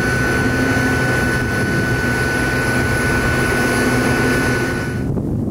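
A steady engine drone with a high, held whine over a low rumble. The whine cuts off suddenly near the end.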